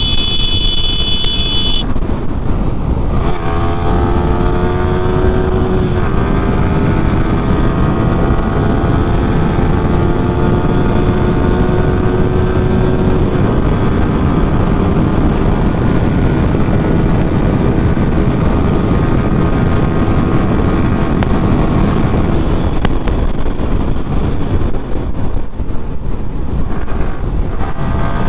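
Yamaha R15 V3's 155 cc single-cylinder engine pulling hard in fifth gear, its note climbing slowly as speed builds, under heavy wind rush. Near the end the engine note drops and starts climbing again.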